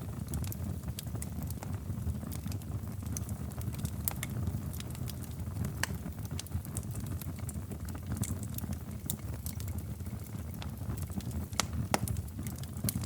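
Wood fire burning in a fireplace: a steady low rumble of flames with irregular crackles and pops, one sharper pop near the end.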